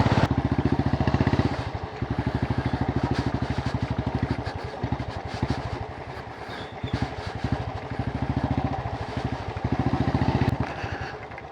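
Motorcycle engine running with a fast, even pulsing beat that swells and fades in loudness several times.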